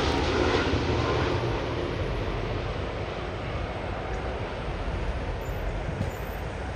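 Large jet airliner's engines rumbling, fading steadily as the plane passes and moves away.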